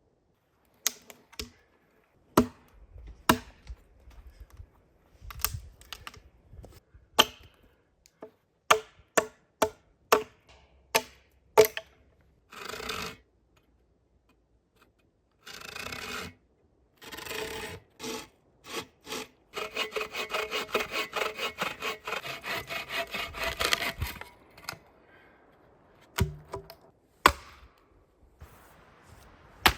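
Firewood being cut by hand: a run of sharp knocks on wood, then a hand saw sawing through wood in quick, even strokes for a few seconds, with two more knocks near the end.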